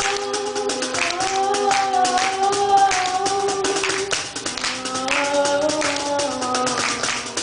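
Live music: held melodic notes from singing and cello over a steady beat of hand percussion.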